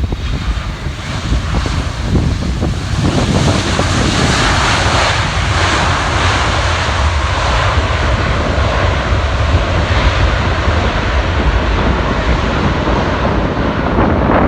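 Boeing 767-300ER airliner's twin jet engines, landing: the roar grows louder over the first few seconds and then holds loud. Strong wind rumbles on the microphone underneath.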